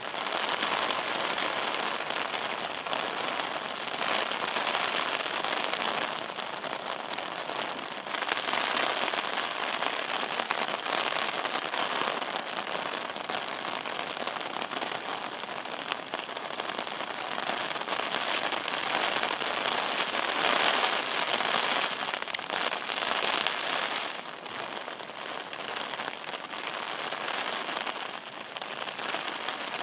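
Steady rain falling, a continuous hiss that swells and eases every few seconds.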